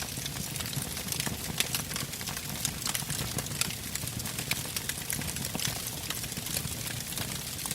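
Burning wood fire crackling: many sharp, irregular pops and snaps from the logs over a low, steady rumble.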